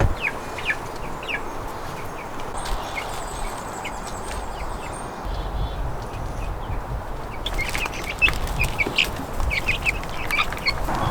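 Baby chicks peeping: many short, high chirps, scattered at first and coming thicker in the last few seconds.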